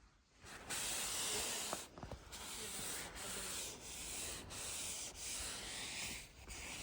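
Repeated rustling rubs of fabric against the microphone, about one stroke a second, with short breaks between strokes.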